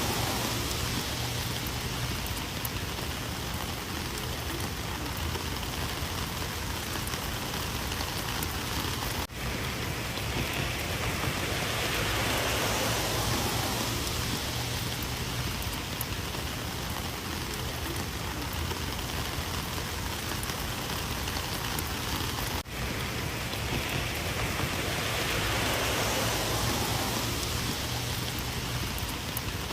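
Steady rain falling, an even hiss of drops that swells and eases slowly, with two very brief drop-outs, about 9 seconds in and again near 23 seconds.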